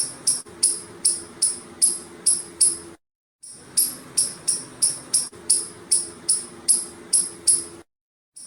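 Squirrel calling with quick, high-pitched chirps, about three a second, each fading at once, over a steady low hum. The calls come in stretches of a few seconds with short silent breaks between them.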